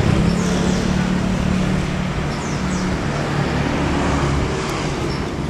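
Passenger train running by: a steady rumble of the carriages with a low, steady engine hum, easing off slightly toward the end.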